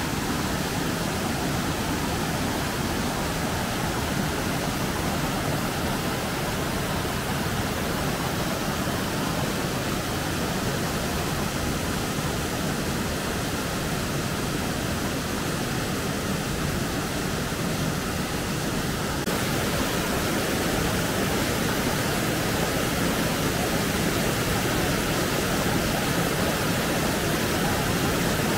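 Steady rush of falling water, with no breaks or separate sounds. It turns slightly louder and brighter about nineteen seconds in.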